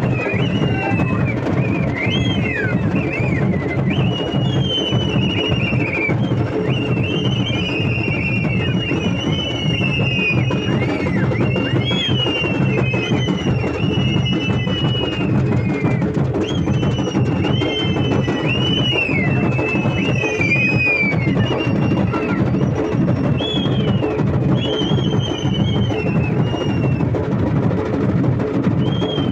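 Drums beating a fast, steady rhythm, with a high, shrill wavering melody over them.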